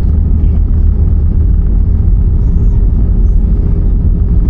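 Airbus A320-214 cabin noise: a loud, steady low rumble with a constant hum running through it, from the airliner shortly before or after touchdown.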